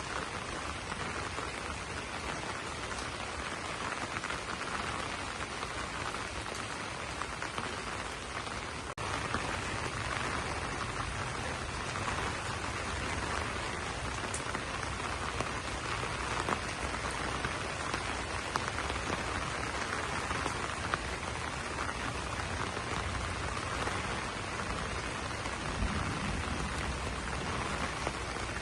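Steady rain falling on broad banana leaves, an even hiss with scattered sharper drop ticks. About nine seconds in it dips for a moment and then runs on a little louder and fuller.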